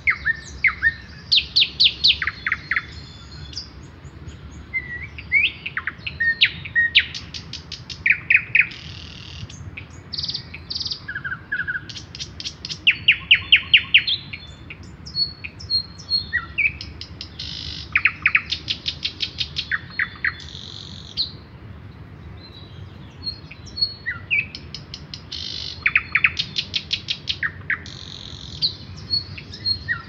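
Songbirds chirping and calling through the woodland, in repeated quick trills of short, falling high notes, one bird answering another. A low steady rumble runs underneath.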